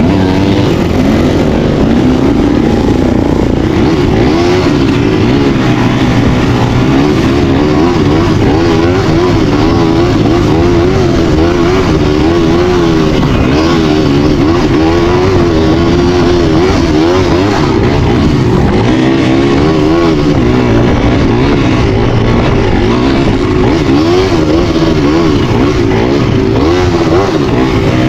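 An engine running continuously under load, its pitch wavering up and down throughout.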